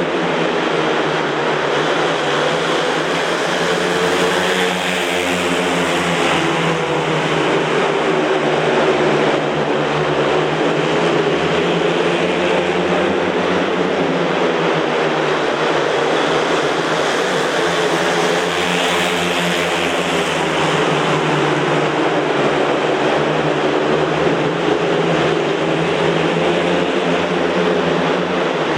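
Four speedway motorcycles racing, their 500cc single-cylinder methanol-fuelled engines revving and running hard together in a continuous loud drone whose pitch rises and falls as they accelerate down the straights and throttle back into the bends.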